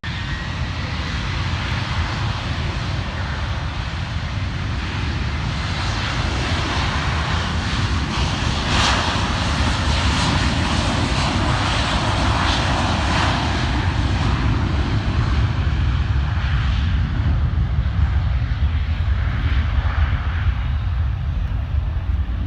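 Jet airliner passing close by with its engines loud: a steady deep rumble with a hiss on top that swells to its loudest about halfway through and then eases a little.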